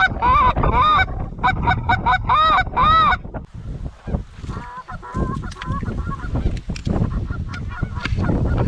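Geese honking: a rapid run of loud honks that rise and fall in pitch through the first three seconds, then fainter, higher, quicker calls. Wind rumble on the microphone runs underneath.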